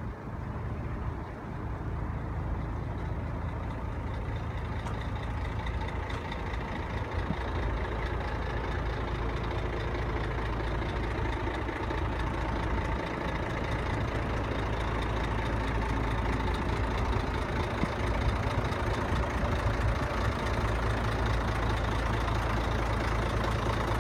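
Scania P114 truck's 11-litre straight-six diesel engine running steadily, getting somewhat louder from about seven seconds in.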